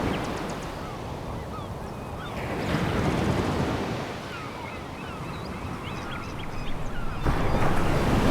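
Sea waves washing onto a pebble beach. One swell rises about three seconds in and falls away, then a louder wave breaks suddenly near the end. Faint short high chirps are scattered throughout.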